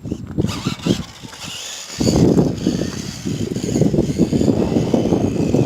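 Tamiya Frog electric RC buggy running on rough ground: a high motor and gear whine over a steady, louder rumble that starts suddenly about two seconds in.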